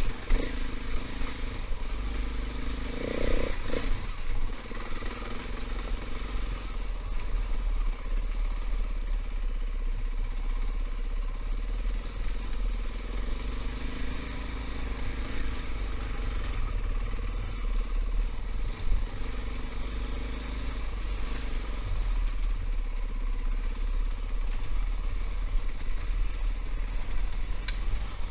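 KTM 500 EXC dirt bike's single-cylinder four-stroke engine running steadily while riding a rough trail, with heavy low rumble throughout.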